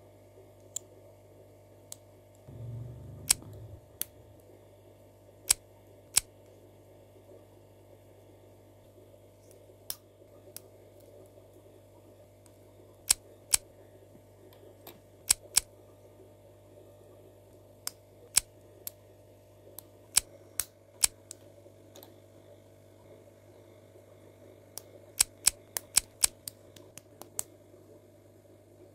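Plastic building bricks of a Sluban (Lego-compatible) set clicking as pieces are pressed and snapped together: single sharp clicks every second or two, with a quick run of clicks near the end. A brief low rumble of handling comes about three seconds in, over a steady low hum.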